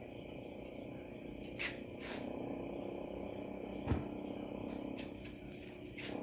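Insects chirping in a steady, evenly pulsing trill, with a few scattered sharp clicks and knocks; the strongest knock comes about four seconds in.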